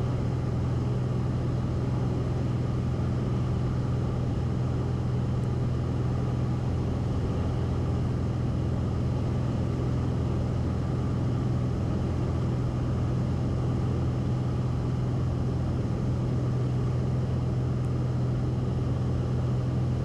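Cessna 172RG's four-cylinder Lycoming O-360 engine and constant-speed propeller droning steadily in cruise flight, heard inside the cabin as a constant low hum with a wash of airflow noise.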